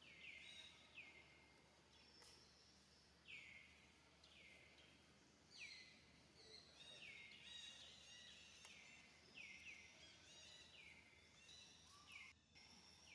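Birds calling: a faint series of short whistled notes, each sliding downward, about one a second with some overlapping, over a steady outdoor background hiss.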